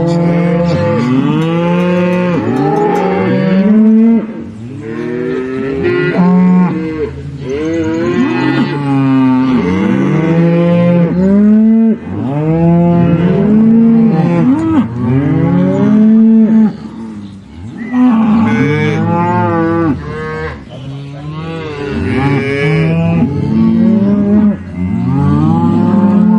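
Several cattle mooing, their long drawn-out calls overlapping one after another with hardly a pause, some deep and some higher-pitched.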